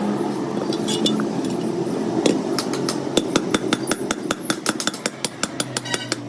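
Rapid metallic tapping: metal striking metal several times a second, starting about halfway through, over a steady low hum.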